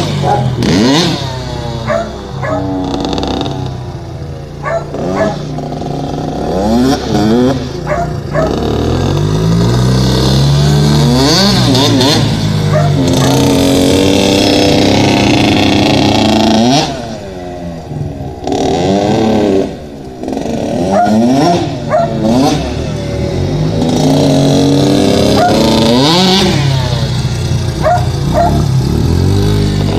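Dirt bike engine revving up and falling off again and again as the bike is ridden over rough ground. It holds steadier for a few seconds in the middle and drops off briefly about two-thirds of the way through.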